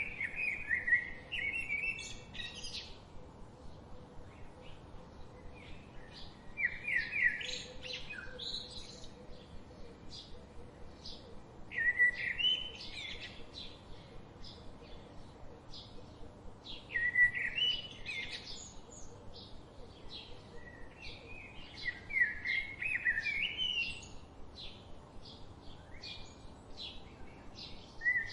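Wild songbirds singing. One bird repeats a short, loud phrase of quick notes about every five seconds, over steady, rapidly repeated high chirping from other birds.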